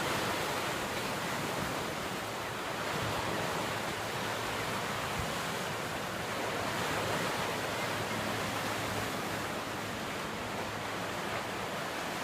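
Waves washing on a beach shore, a steady rushing noise that swells gently, with some wind.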